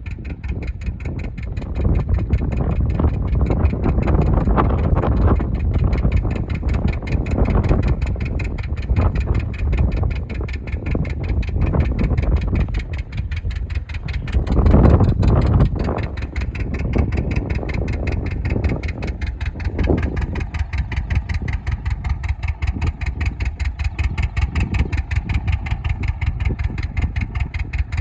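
Engine running with a rapid, even beat, swelling loudest about halfway through; a steady whine joins it in the last third.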